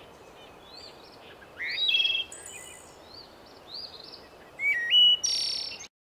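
A songbird singing short whistled phrases that step up in pitch and end in a buzzy trill, repeated a few times over a steady background hiss; the sound cuts off suddenly near the end.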